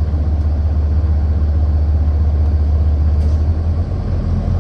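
City transit bus engine and road noise heard from inside the cabin: a steady low rumble, with one faint tick about three seconds in.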